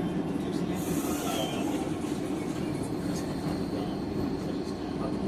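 Docklands Light Railway train running, heard from on board: a steady rumble of the wheels and motors, with a brief high hiss about a second in.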